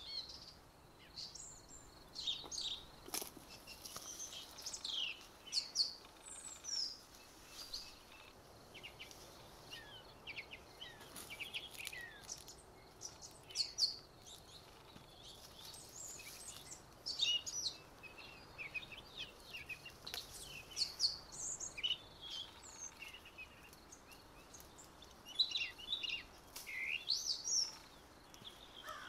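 Songbirds chirping and calling in quick, overlapping phrases, many notes sweeping down in pitch, over a faint steady outdoor hiss.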